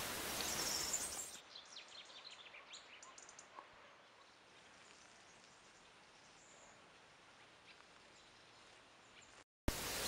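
Faint outdoor ambience at first. It gives way to a few faint, short, high chirps from small birds, then near silence. Outdoor ambience returns just before the end.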